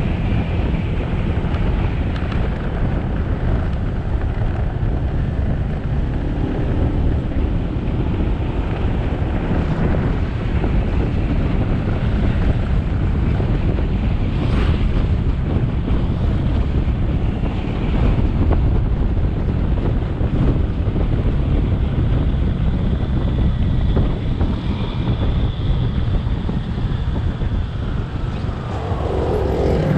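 Wind buffeting the microphone of a riding motorbike, over steady engine and road noise. Near the end an engine note rises in pitch.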